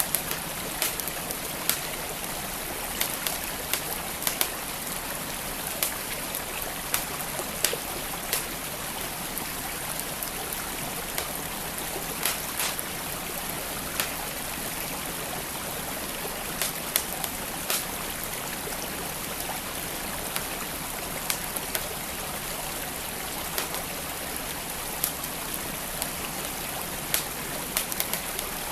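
Wood fire in a fireplace crackling, with irregular sharp pops about one or two a second, over the steady rush of a flowing stream.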